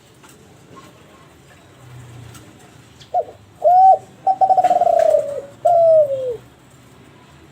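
Kelantan derkuku (spotted dove) cooing one four-note phrase: two short coos, a long rolling trilled coo, then a last coo that falls in pitch. The phrase starts about three seconds in.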